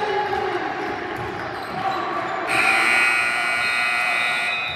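Gym scoreboard buzzer sounding one steady electronic tone for about two seconds, starting about halfway in and cutting off just before the end, over voices and ball bounces in the gym.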